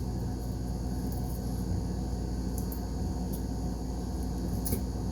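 Steady low hum of room air conditioning, with a few faint light clicks.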